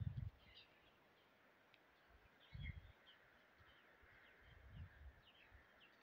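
Faint, scattered chirps of small songbirds, short calls a few times a second. Low rumbles on the microphone come right at the start, about two and a half seconds in, and again near five seconds, the first being the loudest.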